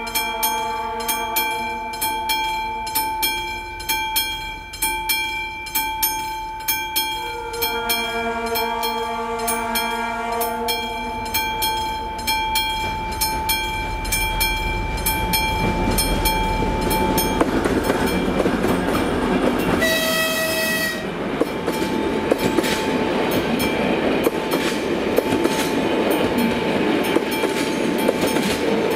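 Level-crossing warning bell ringing steadily about twice a second while a train approaches, its rumble growing louder from about halfway in. A short horn blast sounds about two-thirds of the way through, then the passenger train passes over the crossing with its wheels clacking on the rail joints.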